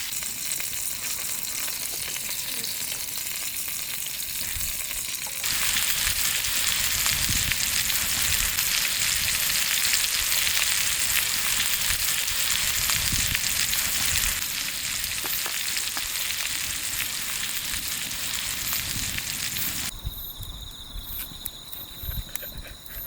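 Lean beef steak sizzling as it cooks over a wood campfire, the sizzle stepping louder about five seconds in. Near the end the sizzling drops away, leaving a steady high chirping of insects.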